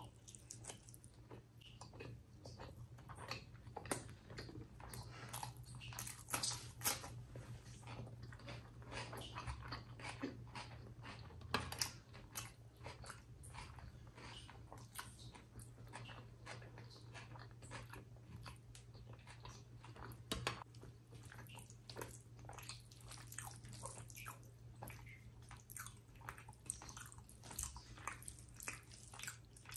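Close-miked eating by hand of chicken liver curry with rice and gravy: wet chewing, lip smacks and soft squelches of fingers in the food, a dense stream of small clicks with a few louder snaps. A faint steady low hum runs underneath.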